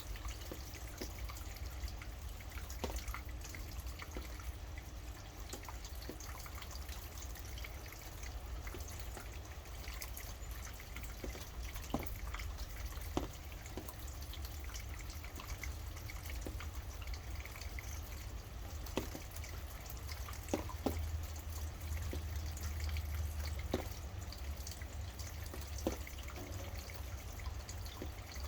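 Steady rain with occasional sharp drips of water at irregular intervals, over a low rumble.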